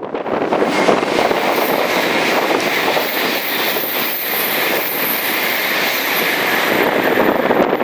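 Shinkansen bullet train passing close by at speed: a loud, steady rush of wheels on rail and air that holds throughout.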